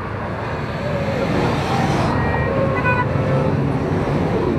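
Engines of a large column of motorcycles running together in a steady din, some pitches rising and falling as riders rev.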